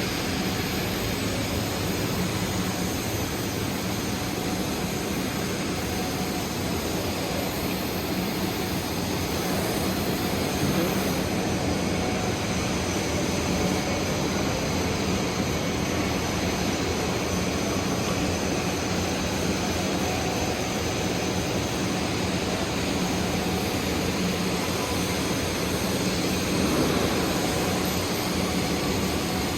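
Arc welding on a 1-inch pipe socket joint: a steady crackling hiss from the arc, with a low hum underneath.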